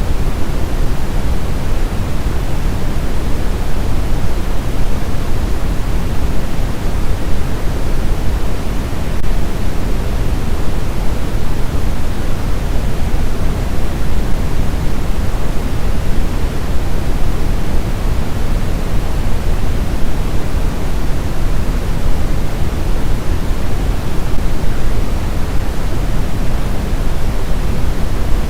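Steady, unchanging white noise for sleep: an even rushing hiss, fuller in the bass than in the treble, with no tones or breaks.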